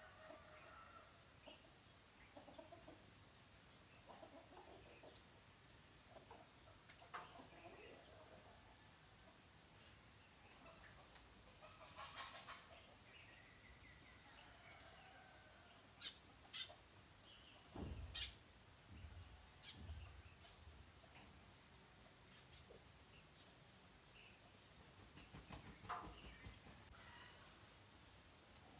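Insects chirping in a high, even pulse of about four chirps a second, in trains several seconds long broken by short pauses, with faint bird calls underneath. A soft low thud comes about eighteen seconds in.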